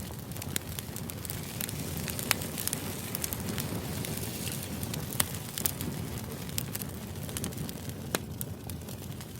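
Steady background noise with frequent, irregular sharp crackles and clicks.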